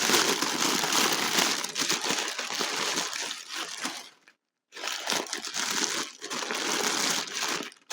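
Packing paper crinkling and crumpling as it is pulled off a wrapped crystal sphere by hand. The sound breaks off for about half a second a little past the middle.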